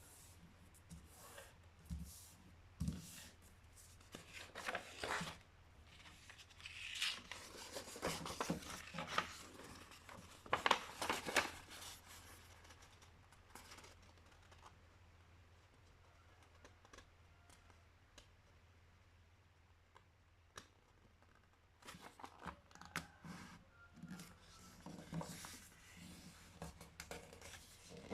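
A sheet of paper being folded and creased by hand: bursts of rustling and sliding strokes, with a quieter stretch in the middle, over a faint steady low hum.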